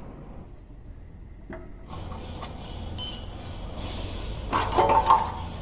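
Metal tools and parts of an earth compactor clinking and knocking during repair, over a low steady hum. It starts about two seconds in, with one ringing metallic strike and a louder run of knocks near the end.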